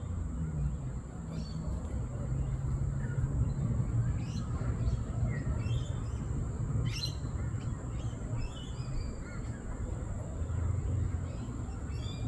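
Parrots giving short chirps and squawks, a dozen or so scattered irregularly, over a steady low rumble and a thin steady high-pitched whine.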